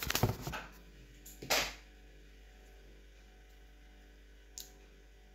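Orange slime being stretched and handled: a few short sticky noises at the start and one louder one about a second and a half in, then a small click near the end.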